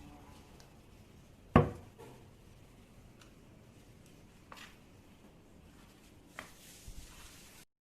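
One sharp knock on wood about a second and a half in, then a few lighter knocks and clicks, as cabinet panels are handled; the sound cuts off suddenly near the end.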